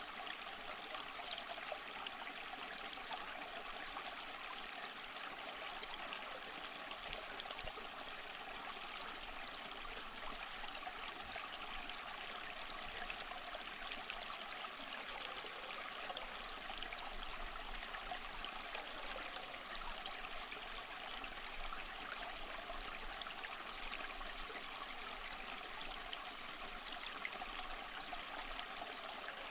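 Waterfall: steady rushing, splashing water, a constant hiss with little deep rumble and no breaks.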